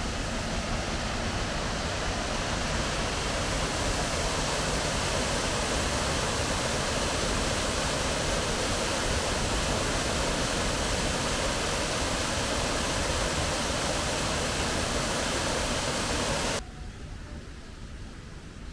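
Steady rush of falling water from a garden waterfall. It cuts off suddenly near the end, leaving a quieter hiss.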